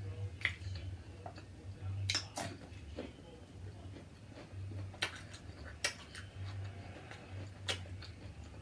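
Eating and food-handling sounds: about half a dozen sharp clicks and crackles, scattered irregularly, over a low steady hum.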